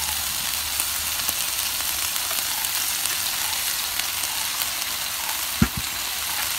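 Chicken breast strips and sliced bell peppers sizzling steadily in a grill pan, with a single thump about five and a half seconds in.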